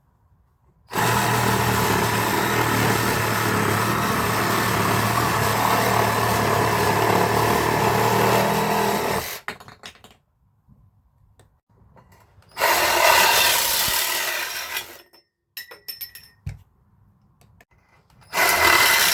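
Reciprocating saw running under the trigger in separate runs: one long run of about eight seconds starting a second in, a shorter run of about two and a half seconds, a few brief spurts, then another run starting near the end.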